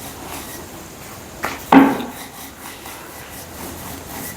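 Wooden rolling pin knocking twice against the rolling board, the second knock louder with a short hollow ring, about a second and a half in, amid faint rubbing of dough being rolled out.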